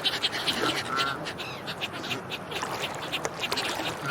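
Ducks quacking in a rapid run of short calls.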